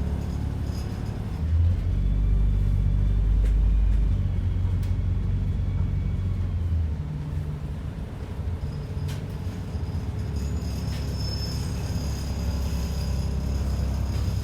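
Diesel engine of an ADL Enviro 400 double-decker bus heard from inside the cabin, running with a steady low note. It grows louder about a second and a half in and eases off after about four seconds, with a couple of faint clicks from the bus.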